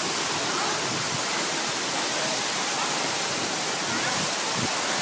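Waterfall, falling water making a steady, unbroken rush.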